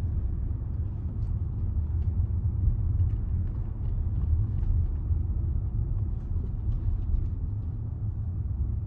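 Steady low road and engine rumble inside the cabin of a Range Rover driving slowly along a road.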